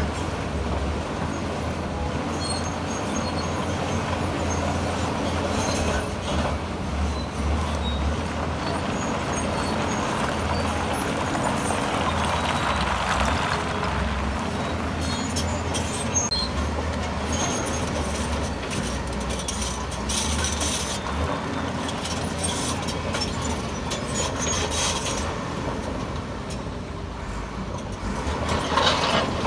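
Heavy diesel earthmoving machinery working, its engine rumbling steadily with a pulsing low throb, along with scattered metallic clanks and rattles typical of steel crawler tracks and stone being shifted.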